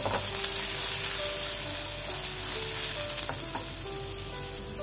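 Boiled black chickpeas sizzling steadily in hot olive oil with cumin seeds in a nonstick pan, at the start of a light roast.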